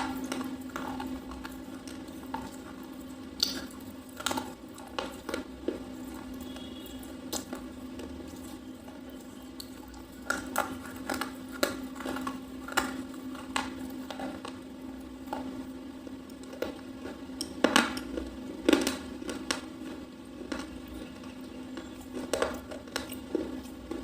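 Close-up crunching and chewing of a soft red slate pencil bar: irregular sharp crunches, with a loud cluster about three-quarters of the way through, over a steady low hum.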